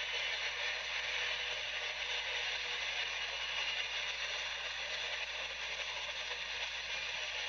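Long double-stack freight train rolling past, a steady clatter and rattle of its wheels on the rails.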